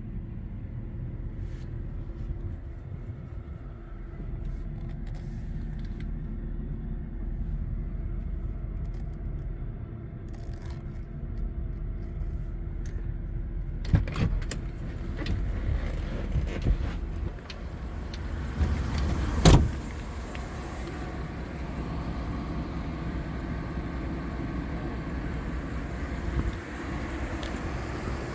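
The Chevrolet Tahoe's 5.3L V8 runs steadily with a low hum. About halfway through, a series of clicks and rattles starts, followed by one sharp, loud thump.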